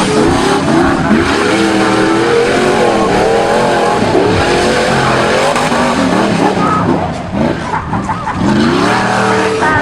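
Off-road 4x4 competition vehicle's engine revving hard, its pitch rising and falling again and again, with a quieter dip about seven seconds in.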